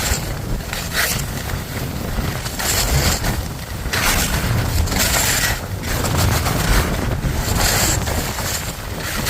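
Wind rushing over the microphone during a ski run downhill, with a hiss of skis sliding on snow that swells every second or two as the skier turns.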